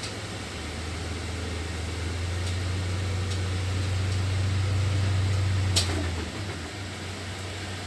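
A low steady hum that grows louder over several seconds and then falls away, with a single sharp click a little before the end.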